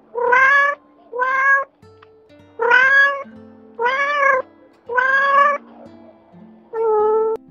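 A cat meowing six times, each meow about half a second long and rising slightly in pitch, over soft background music.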